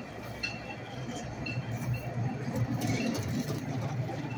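Narrow-gauge passenger coaches rolling past close by: a steady low rumble of wheels on the track with light metallic clicks about twice a second.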